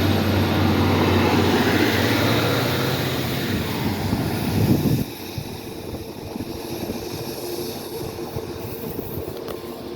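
Diesel train passing close by: a low engine drone over the rumble of wheels on the rails that cuts off fairly suddenly about five seconds in, leaving a quieter hum.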